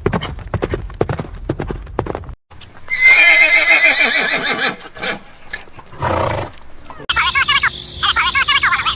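Quick clicking taps, then a loud drawn-out animal call about three seconds in, followed by shorter fluttering calls near the end.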